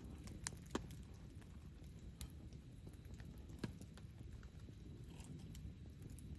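Wood campfire crackling: scattered sharp pops at irregular intervals, a few louder ones in the first four seconds, over a low steady rumble.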